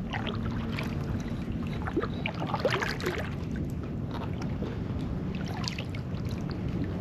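Kayak paddle dipping into calm water, with scattered small splashes and drips from the blades over a steady low rumble.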